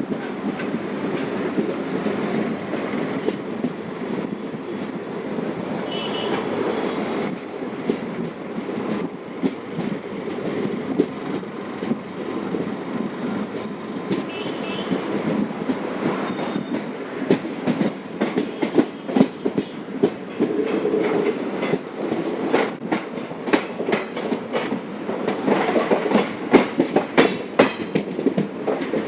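Intercity express passenger train running on its track, with a steady rumble of wheels and coach. From about two-thirds of the way in, the wheels clatter over rail joints in quick, uneven clicks that grow louder as the train nears the station.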